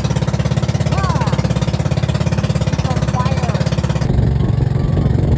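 Engine of a motorized outrigger boat (bangka) running at steady speed with a fast, even chugging; the sound changes about four seconds in.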